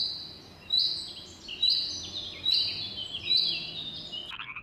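An otter chirping: five high, piercing chirps about 0.8 s apart, each a held note that drops lower at its end.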